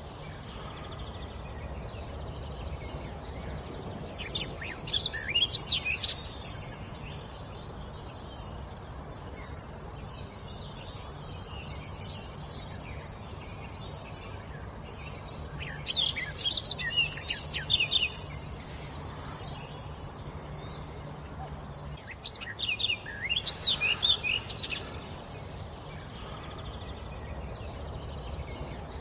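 A songbird singing in short bursts of rapid, high chirping notes, three phrases a few seconds long with pauses of several seconds between, over a steady low background hum.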